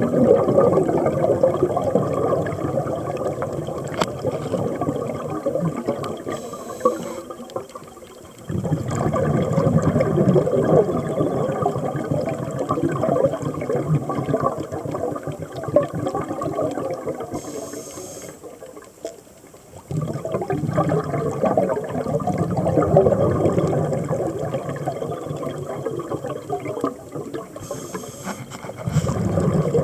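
Scuba diver breathing through a regulator underwater: long stretches of exhaled bubbles burbling, each broken by a short inhale hiss, about every ten seconds, three times.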